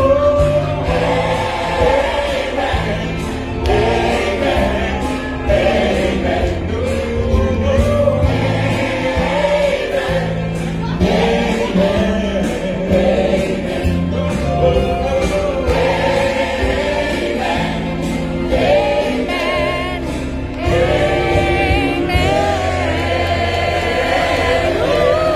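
Christian gospel-style music: a choir singing over a steady bass accompaniment.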